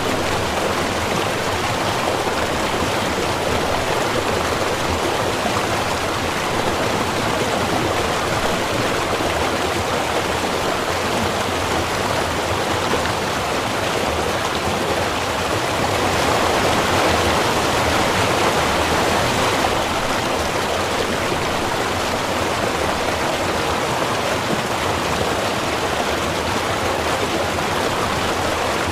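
Small river running steadily over rocks, a continuous rushing and babbling that swells slightly about halfway through.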